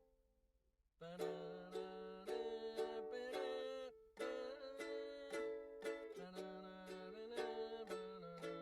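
Background music: a bright plucked-string tune, ukulele-like, with regular strummed or plucked notes, starting about a second in after a brief gap.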